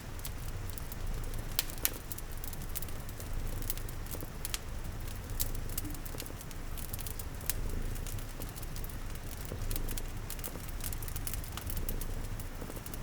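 Ambience mix of a cat purring low and steady, a crackling fire with sharp pops scattered irregularly throughout, and soft rain patter.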